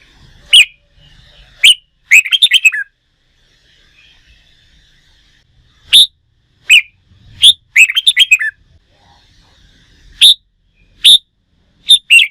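Red-whiskered bulbul singing: loud, short, clear notes a second or so apart, broken twice by a quick run of warbled notes.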